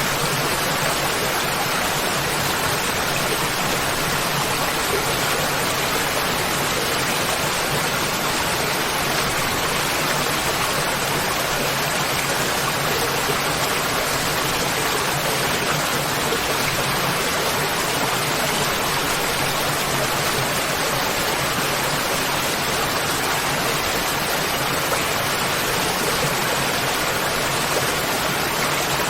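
Waterfall: water falling and rushing in a steady, unbroken hiss with no changes.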